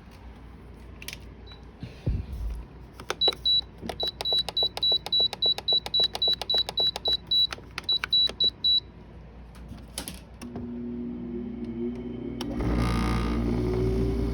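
GE dehumidifier being switched back on: a fast, even run of clicking beeps from its control panel, about four a second for some five seconds. About ten seconds in its motor starts with a hum, and the fan's air noise comes up near the end.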